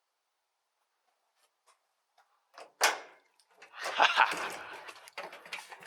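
Near silence, then a single sharp knock about three seconds in, followed by clattering and rustling from things being handled.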